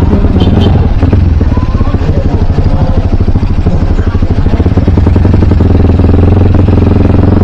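Dirt bike's single-cylinder engine running steadily at low revs, a dense rapid firing pulse over a strong low hum.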